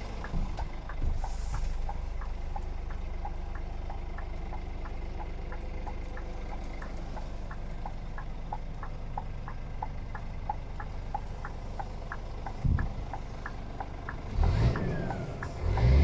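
Scania R450 truck's 13-litre six-cylinder diesel idling steadily, with a regular light ticking of about three ticks a second running over it. A single thump comes about 13 seconds in, and the sound grows louder and busier near the end.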